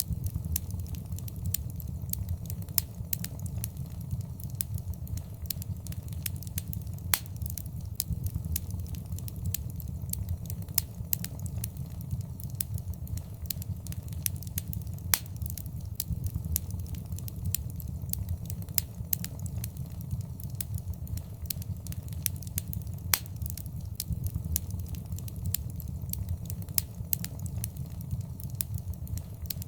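Wood fire burning in a fireplace: a steady low rumble of the flames with frequent sharp crackles and pops scattered irregularly throughout, a few of them louder.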